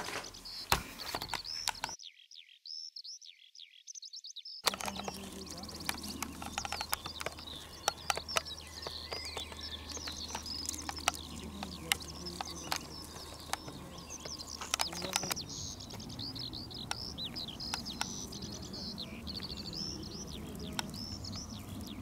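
Small songbirds singing and chirping, with many short high notes overlapping throughout, and a few faint scattered clicks.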